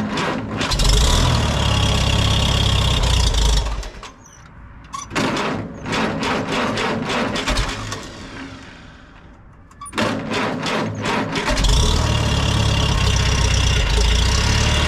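Farmall C's four-cylinder gasoline engine being cranked on its starter, choked and at half throttle, in three tries with short pauses between; on the third try, about eleven and a half seconds in, it catches and settles into a steady run.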